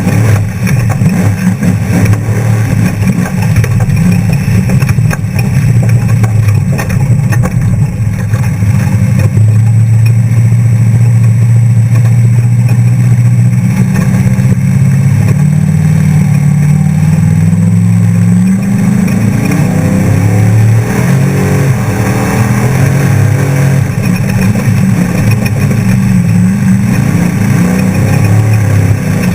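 Off-road trophy truck's V8 engine running hard at speed over a constant rush of wind and road noise. About halfway through it climbs steadily in pitch under acceleration, then rises and falls with the throttle.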